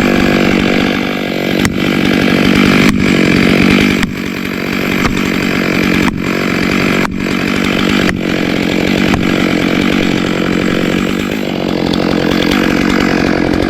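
Chainsaw held at full throttle, cutting steadily into a large tree trunk during a felling cut. The engine note stays even under load.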